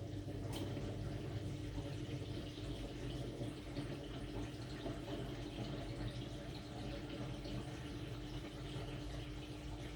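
AQUA AQW-DX12M drum washing machine partway through its wash cycle: water running and sloshing in the drum over a steady machine hum with a constant tone.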